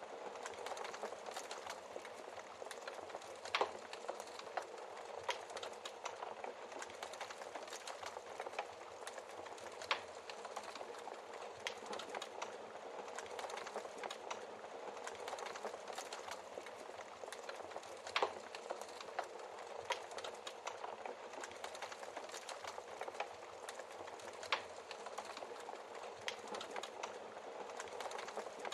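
Wood fire crackling steadily with dense small crackles, and four louder sharp pops from the burning logs spread through it.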